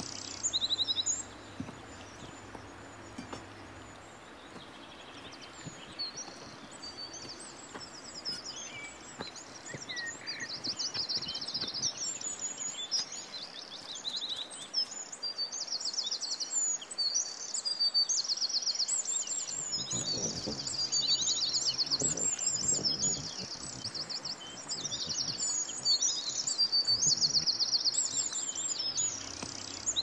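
Birds chirping: many quick, high calls and fast trills overlapping and repeating.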